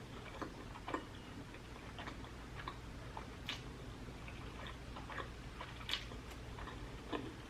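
A person chewing food close to the microphone, with soft, irregular mouth clicks every second or so over a low steady hum.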